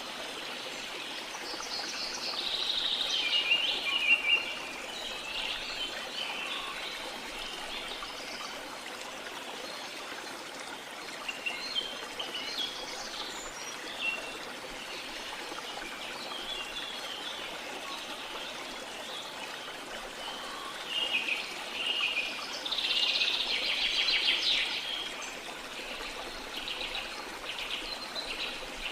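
Steady rush of a waterfall with tropical forest birds calling over it in bursts, loudest around three to four seconds in and again from about twenty-one to twenty-five seconds in, with a rapid trill toward the end.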